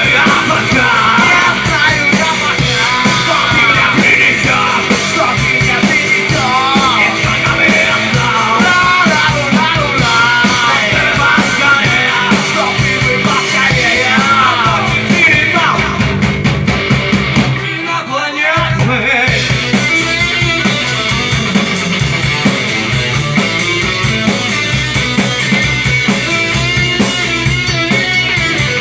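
Rock song covered by a band: a singer's voice over electric guitar and drums for the first half or so, then the voice drops out. After a brief break about two-thirds of the way through, the band plays on without singing.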